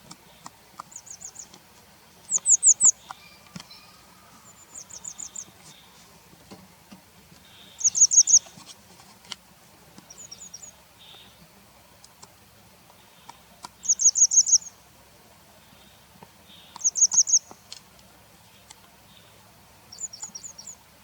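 Grey wagtail calling: short groups of three to five sharp, high notes, repeated every two to three seconds.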